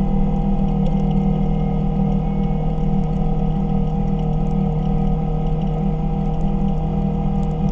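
Kawasaki KRX 1000 side-by-side's parallel-twin engine running at a steady speed while driving, a steady drone.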